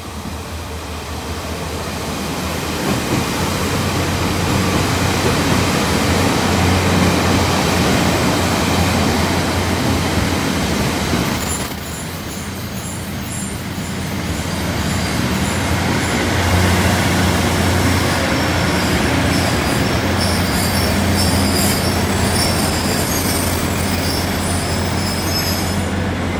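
Ordinary-train passenger carriages pulling out and gathering speed, heard from the train: wheels running on the rails, building over the first few seconds, with high wheel squeal at times. The noise dips briefly about twelve seconds in, then picks up again.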